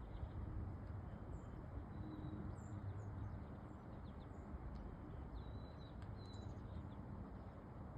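Outdoor ambience: a steady low rumble with faint, short high-pitched chirps scattered through it every second or so.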